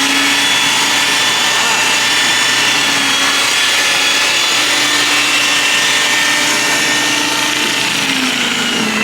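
Small snowblower running steadily: a continuous motor whine over a constant hissing noise, its pitch wavering slightly and dipping briefly near the end.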